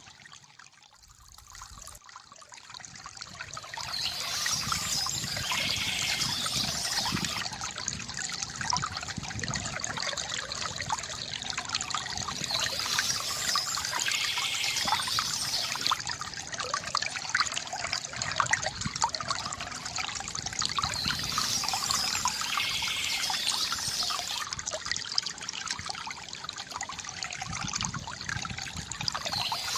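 Water trickling and gurgling from a bamboo fountain, splashing steadily. It is quieter for the first few seconds and swells back up.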